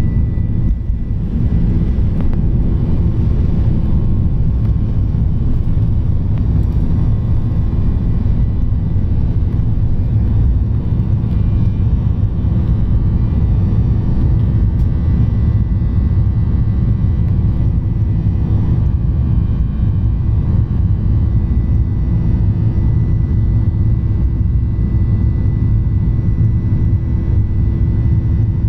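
Airliner's engines running steadily: a continuous low rumble with a faint steady hum over it.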